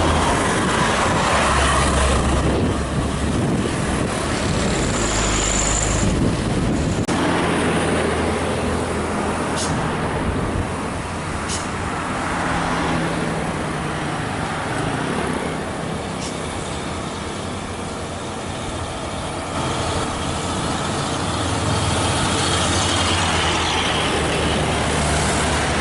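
Heavy road traffic, with diesel buses and trucks passing close by and their engines running under steady road noise. The sound changes abruptly about seven seconds in.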